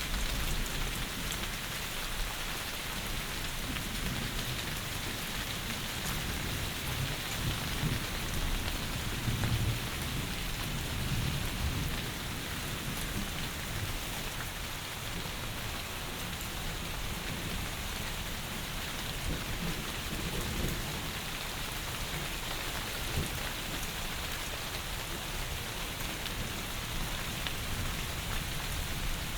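Heavy rain falling steadily, a dense even hiss, with a low rumble that swells and fades about eight to twelve seconds in.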